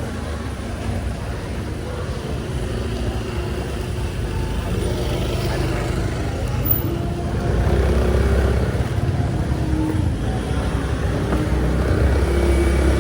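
Street traffic: vehicle engines running and passing, with a steady low rumble that gets louder about seven and a half seconds in.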